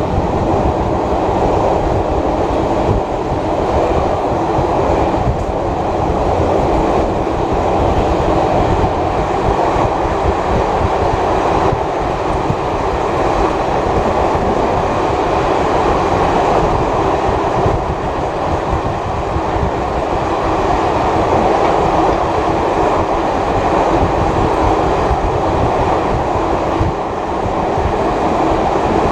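Heritage passenger train running along the line, heard on board: a steady rumble of carriage wheels on the rails with some clickety-clack over rail joints.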